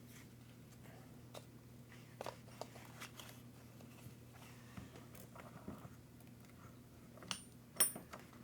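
Light scattered clicks and taps of small parts and tools being handled during hands-on RC truck repair, with two sharper metallic clinks that ring briefly near the end, over a steady low hum.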